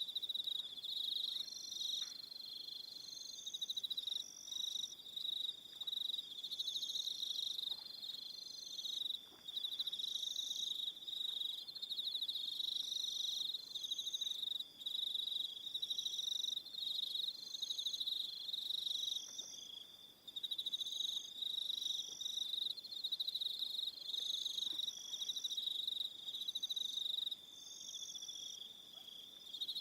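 Crickets chirping: a steady high trill, with shorter, higher chirps repeating about once a second over it.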